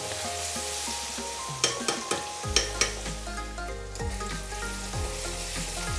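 Onions and ginger-garlic paste sizzling in hot mustard oil in a kadhai, with a spatula stirring and scraping against the pan a few times. Soft background music plays underneath.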